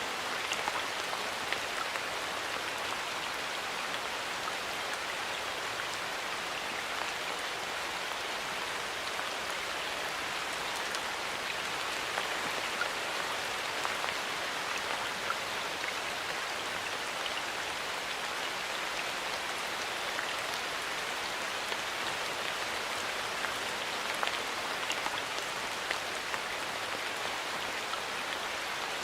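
Steady rain falling in a forest: an even hiss of rainfall with many small drops pattering on leaves and the ground.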